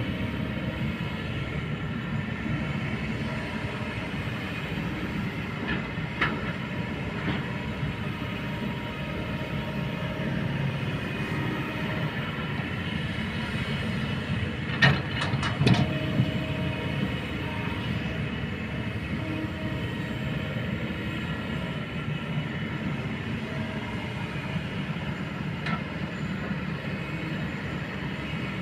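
Kobelco hydraulic excavator's diesel engine running steadily under work, with a few sharp knocks from the machine, the loudest cluster a little past halfway.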